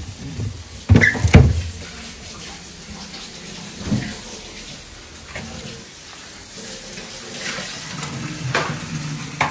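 Water running steadily, with two knocks about a second in.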